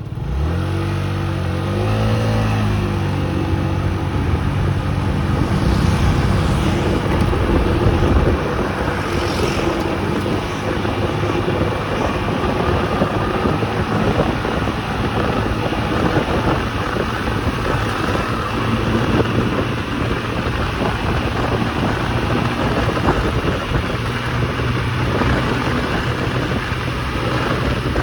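Small motorcycle engine revving up, its pitch climbing over the first couple of seconds, then running steadily at riding speed under wind noise on the microphone.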